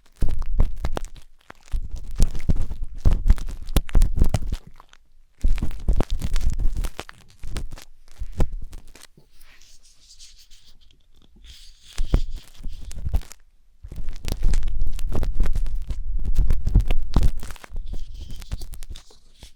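Wooden skewer scraping and scratching inside the silicone ear of a 3Dio binaural microphone, making close, crackly rubbing with a low rumble. It comes in spells of a few seconds with short pauses between.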